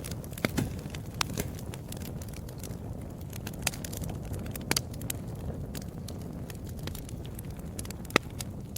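Wood fire crackling: a low steady rumble of burning with scattered sharp pops and snaps, the loudest about eight seconds in.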